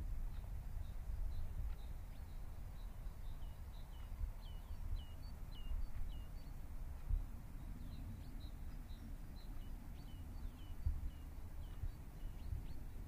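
Outdoor ambience: a steady low rumble under a small bird's short, high chirps, each dropping in pitch, repeated two or three times a second with a brief pause about halfway through.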